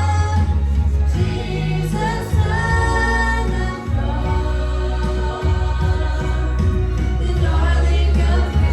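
Congregational worship song: a group of voices singing held notes with a female lead, over a band with a strong bass.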